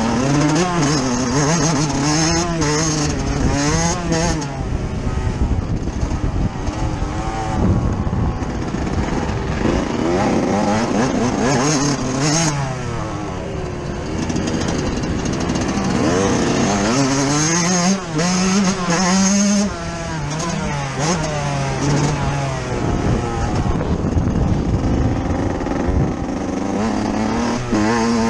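Yamaha YZ 125 two-stroke motocross bike ridden on board, its engine revving up and dropping back again and again as the rider works through the gears and throttle around the track.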